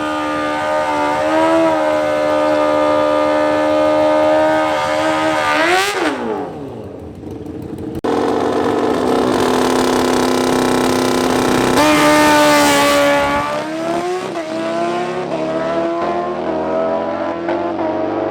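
Drag-racing motorcycle engines held at steady high revs, then one launching and pulling away, its pitch dropping steeply about six seconds in. After an abrupt cut, another motorcycle is held at steady high revs and then launches, its pitch stepping and climbing as it accelerates.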